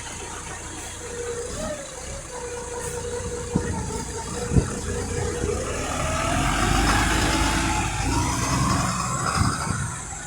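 Volvo B7RLE single-decker bus's diesel engine idling with a steady hum, two sharp knocks midway, then the engine and drivetrain rising in pitch and getting louder as the bus pulls away.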